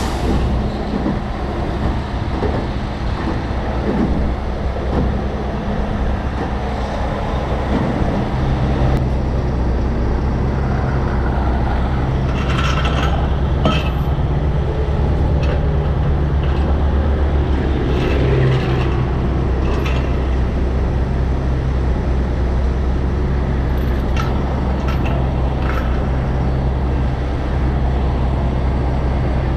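Heavy diesel truck engine running steadily under load, its speed stepping up about nine seconds in and holding there. A few short metallic clicks and clanks sound over it.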